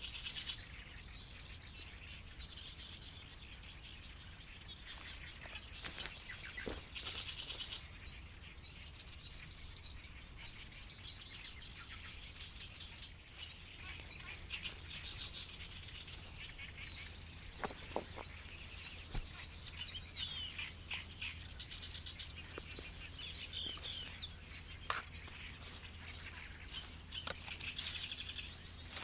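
Small birds chirping over and over in quick, high notes, with a few sharp knocks in the middle and near the end.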